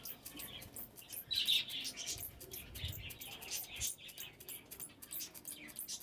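Small cage birds chirping in a fast run of short, high calls, with a louder burst about a second and a half in.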